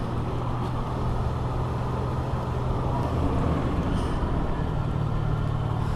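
2008 Toyota FJ Cruiser's 4.0-litre V6 idling steadily, a low even hum.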